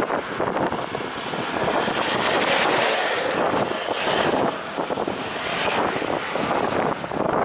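Jet airliner passing low on its landing approach, its engines a loud, rushing noise that swells and fades, with gusty wind buffeting the microphone.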